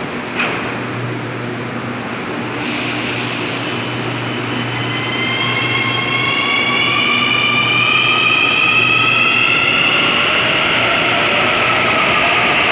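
Metro train's electric traction motors whining in several tones that rise slowly in pitch as the train picks up speed, over a steady low hum and rolling noise. A short burst of hiss comes about two and a half seconds in.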